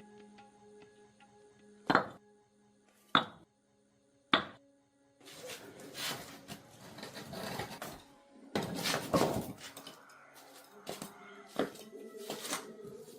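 Metal tools and parts striking together: three sharp ringing clinks in the first half, then scraping and handling noise with a louder clatter past the middle. Faint background music runs underneath.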